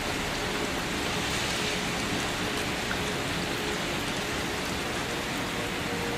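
Steady rain falling, a continuous even patter of drops on a surface.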